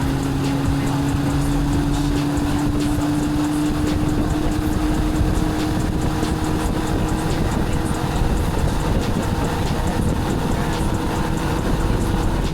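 Engine running at speed under a loud rush of wind and noise. Its drone rises slowly in pitch over the first few seconds, then holds steady, and it cuts off suddenly near the end.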